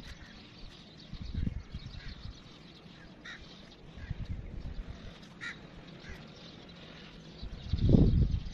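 Birds calling now and then, with short calls about three seconds in and again about five and a half seconds in. A louder low rumble comes near the end.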